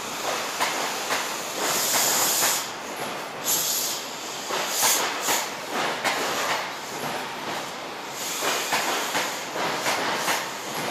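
Mark 3 passenger coaches of an InterCity 125 HST rolling past at low speed as the train pulls out, wheels knocking over rail joints, with bursts of hissing several times.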